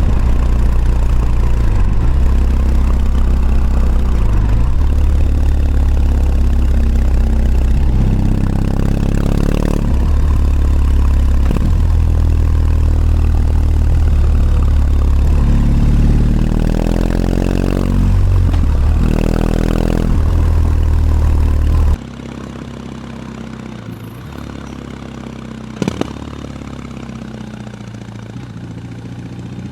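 BMW R18 Classic's big boxer twin running loud under load, revs climbing several times as it accelerates through the gears. About three quarters of the way in the engine sound drops suddenly to a quieter, lower running note.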